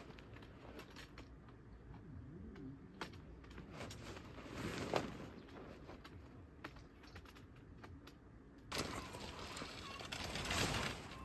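Scattered light clicks and taps over a low background rumble, with one sharper click about five seconds in. The background hiss grows fuller near the end.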